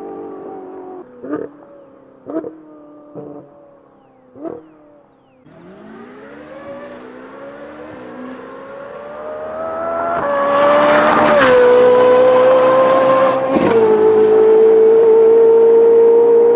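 Ferrari 458's naturally aspirated flat-plane V8 through a titanium valved exhaust with free-flow front pipes. Off the throttle, its note falls away with four short sharp pops. About five seconds in, it pulls hard, its pitch climbing until it runs loud at high revs, with two brief dips in pitch.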